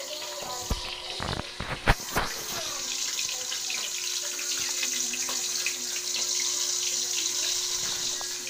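Hot oil sizzling steadily as tilapia fries in a wok, louder from about two seconds in. A few knocks from handling the phone come just before that.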